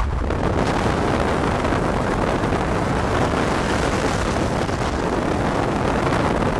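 Car running hard at speed, a loud steady rush of engine, road and wind noise.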